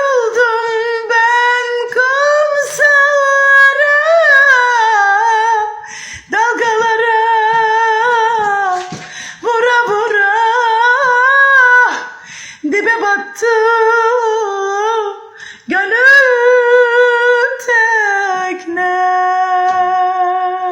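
A woman singing a Turkish song unaccompanied, in long held phrases with vibrato and short breaths between them.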